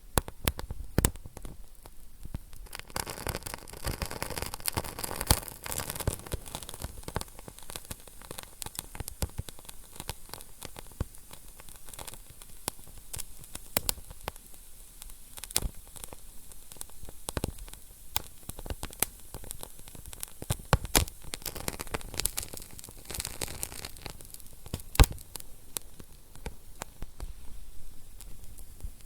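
Wood fire crackling and popping in a fireplace: irregular sharp snaps over a steady hiss of burning, with a louder pop about 25 seconds in.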